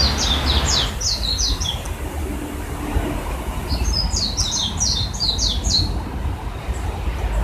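Songbird calling in two quick bursts of high, short, downward chirps, one right at the start and another about four seconds in, over a steady low rumble.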